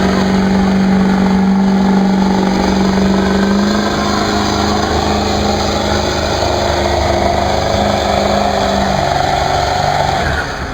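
Ford F-350 pickup engine running hard at high, steady revs under load in a truck pull, then dropping off near the end as the run ends.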